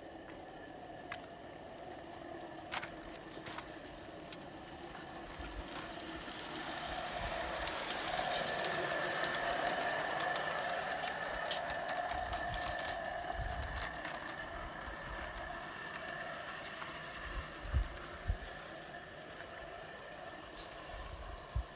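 Wilesco Lucas live-steam model engine running with its train of carriages, a steady sound with a held whine. It grows louder for several seconds mid-way as it comes near, then eases off, with scattered light clicks throughout.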